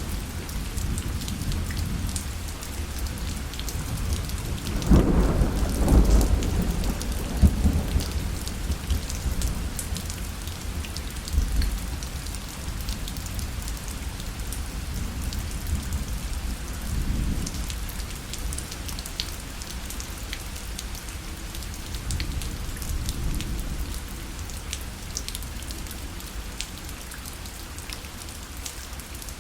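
Rain pattering steadily on a parasol, with a roll of thunder that swells about five seconds in and rumbles away in weaker waves over the next twenty seconds.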